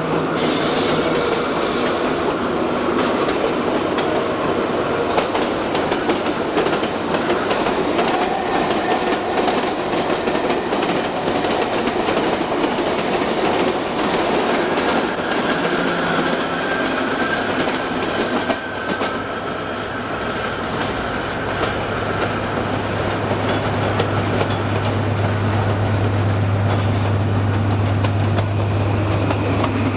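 A train running on the rails, its wheels clicking steadily over rail joints. There is a faint wheel squeal for a few seconds near the middle, and a steady low engine drone grows louder over the last third.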